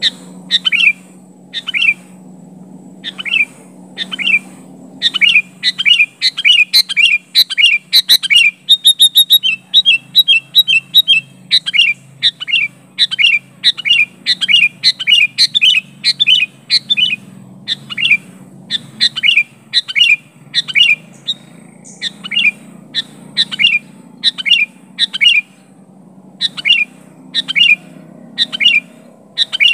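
Sooty-headed bulbul giving loud, repeated short chirping calls, spaced out at first, then coming in quick runs of notes, then settling back to about one a second. These are vigorous calls to a rival.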